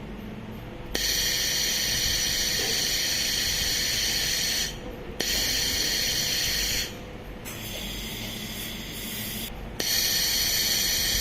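Fiber laser welding machine running in bursts of a few seconds: a steady high-pitched hiss that cuts in about a second in, stops and restarts twice, with a quieter stretch in the middle.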